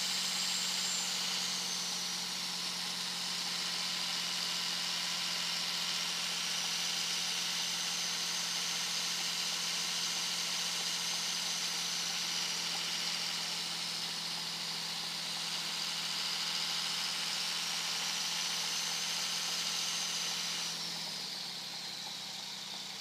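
Turbocharger whistle from a 2001 Dodge Ram 2500's 5.9-litre Cummins inline-six turbo diesel at highway speed: a loud, high whistle that slowly wavers up and down in pitch over a steady engine drone. Near the end the engine note drops, the whistle falls in pitch and the sound gets quieter.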